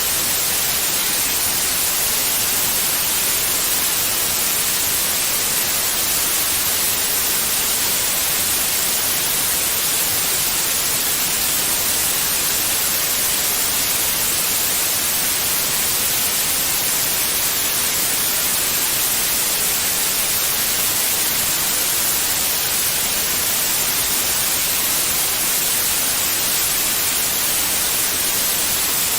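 Steady white noise: an even, unchanging hiss that is strongest in the treble.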